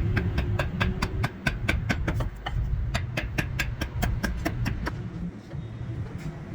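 Rapid, evenly spaced tapping strikes, about four to five a second, that stop about five seconds in, over a steady low rumble.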